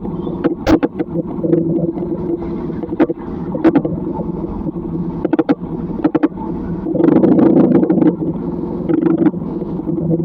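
A motor vehicle's engine running with a steady hum, with irregular sharp taps and clicks over it; the hum grows louder about seven seconds in.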